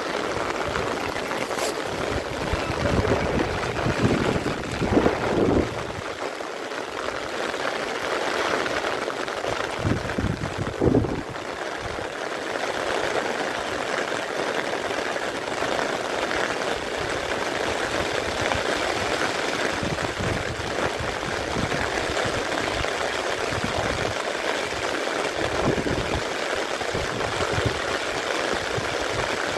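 Steady hiss of heavy rain falling on floodwater, with a few louder low rushes about four to five and ten to eleven seconds in.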